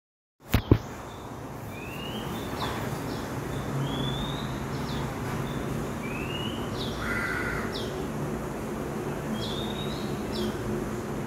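A bird repeating a short call about every two seconds, each a rising whistle followed by a quick higher note, over a steady outdoor background hum. Two sharp clicks just under a second in.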